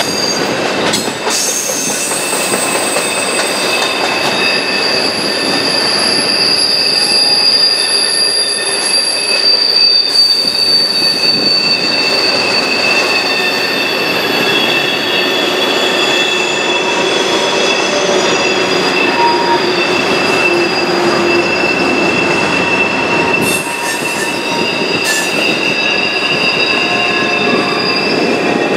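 Double-stack container train rolling past on a curve, its wheels squealing in several long, steady high tones over the rumble and clatter of the cars, with a few sharp clanks.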